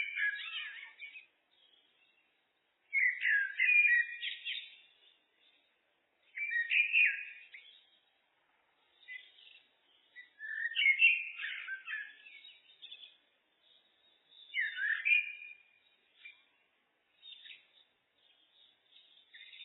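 Common blackbird singing: five separate song phrases, each a second or so of warbled notes, coming about every three to four seconds, with fainter scattered twittering notes near the end.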